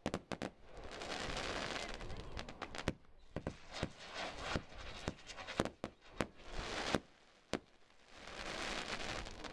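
A 98-shot single-ignition firework barrage firing: irregular sharp bangs of shots launching and bursting, with two stretches of dense crackle from the stars breaking, one near the start and one near the end.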